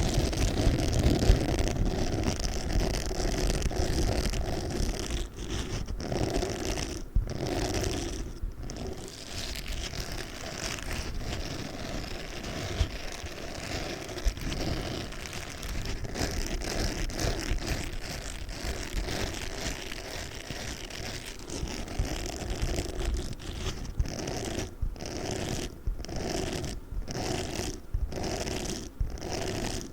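Pink spiky sponge being scratched and squeezed, a continuous scratchy rustle. Near the end it comes in separate strokes about once a second.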